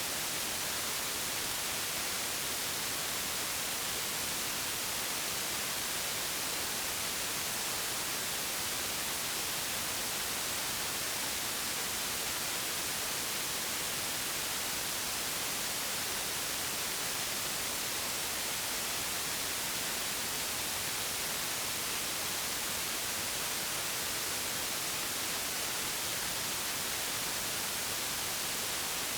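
Steady white noise, an even hiss weighted toward the high end, unchanging throughout.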